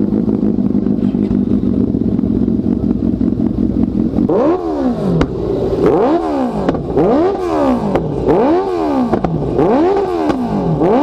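Honda CBR650F inline-four idling steadily through an aftermarket exhaust, then from about four seconds in blipped repeatedly, a series of quick revs rising and falling about once a second.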